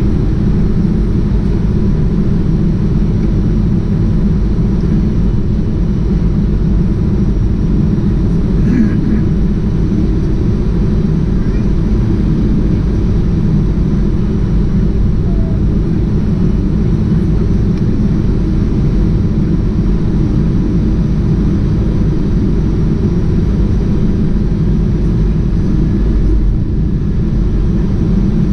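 Steady, loud, deep drone of a jet airliner heard from inside the passenger cabin: engine and airflow noise in flight.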